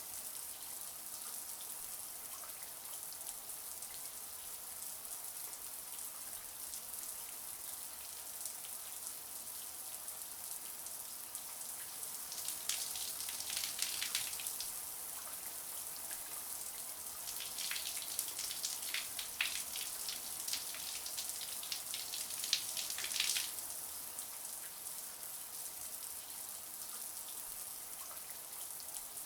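Shower spray running steadily, a high even hiss of falling water. Twice it turns to a louder spattering for a few seconds, first about twelve seconds in and again for about six seconds a little later.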